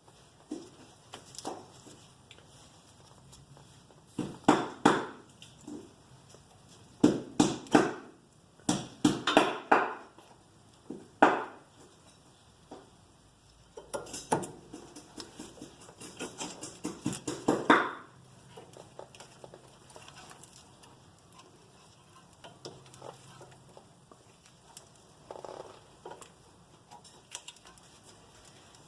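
Metal brake parts being handled: irregular clinks, clicks and scrapes of brake pads, pad clips and caliper hardware, in clusters for about the first eighteen seconds, then only faint scattered ticks.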